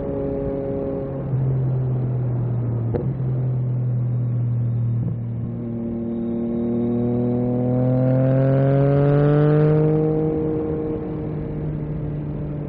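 Yamaha MT-09 SP's three-cylinder engine through an Akrapovic carbon racing exhaust, running steadily at first with a single click about three seconds in. From about halfway it pulls in a long rising rev, loudest a little before the end, then eases off.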